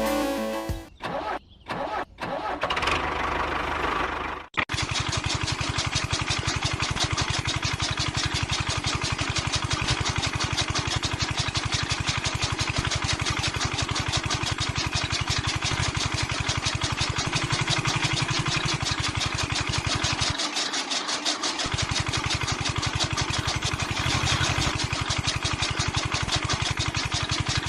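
A small engine is cranked in short stop-start bursts for the first few seconds, catches about four and a half seconds in, and then runs steadily with a fast, even chugging beat.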